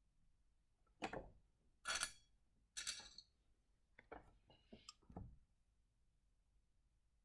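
Handling noises from rough opal pieces being picked up and set down: three knocks about a second apart, then a quick run of small clicks.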